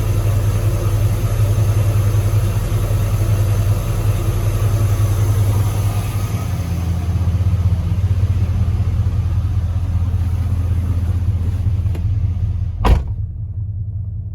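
A 2002 Chevrolet Silverado pickup's engine running steadily with a deep, even hum. Near the end a single sharp thump, after which only the low rumble is left.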